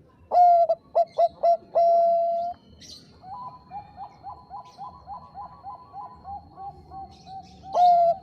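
Bangkok-type zebra dove (perkutut) cooing. A loud phrase of a long note, three short staccato notes and a long held note is followed by a quieter run of rapid, evenly spaced coos, and a loud coo starts again near the end. A faint steady high whine runs behind the quieter run.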